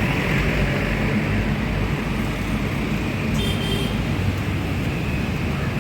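Steady roadside traffic noise, a continuous rumble and hiss of passing vehicles. A short high-pitched tone sounds a little past halfway through.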